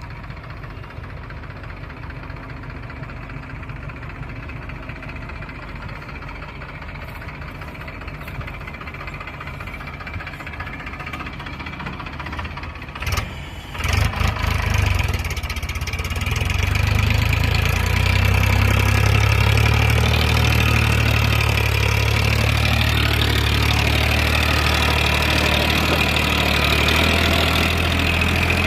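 Tractor loader engine running steadily. About halfway through there is a brief break, after which it runs louder with a deeper, steadier hum.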